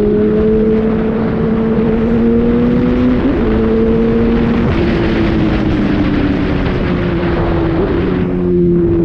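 Honda Hornet motorcycle engine running under way, over a steady rushing noise; the engine note climbs slowly, drops a step about a third of the way in and again near the middle, then eases down over the last few seconds.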